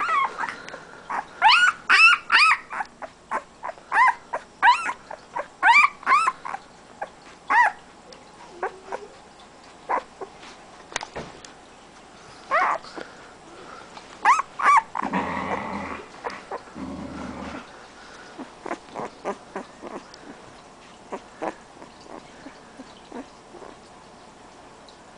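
Siberian husky puppy whining and yelping in short, high, rising-and-falling cries, many in quick succession over the first eight seconds, then fewer and more scattered. About fifteen seconds in there is a rougher, lower sound lasting a couple of seconds.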